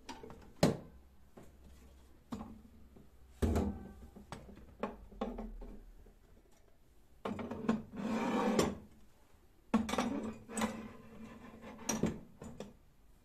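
Irregular knocks, clicks and clatter of objects being handled, with a few short scraping stretches.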